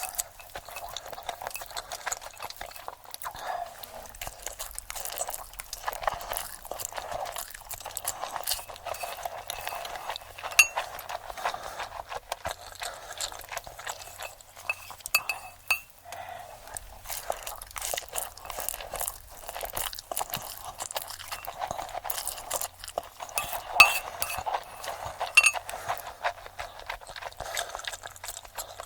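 Close-miked eating sounds, sped up: dense crunching and chewing with clinks of cutlery and dishes, and a few louder sharp crunches.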